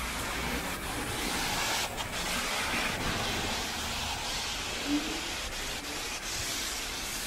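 Steady hiss of rain on a wet city street, with a brief low tone about five seconds in.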